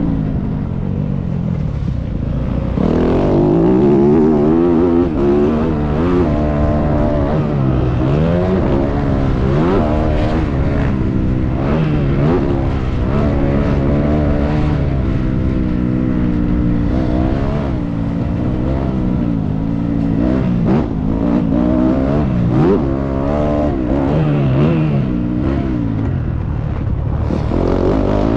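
Motocross dirt bike engine being ridden hard, its pitch repeatedly rising under throttle and dropping off every second or two as the rider works through the track.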